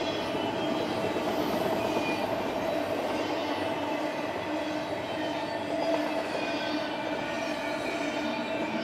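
Double-stack intermodal freight train rolling past: a steady, even rumble of the well cars' wheels on the rails, with thin high squealing tones from the wheels running through it.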